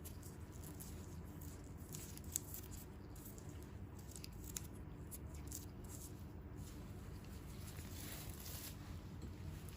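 Faint, close-up crackles and soft rustles of hands working on bare feet during a foot peel treatment, over a low steady hum. A short, louder hiss comes near the end.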